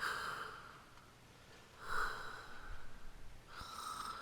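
A person breathing heavily through the mouth, with three loud, hissy breaths about two seconds apart.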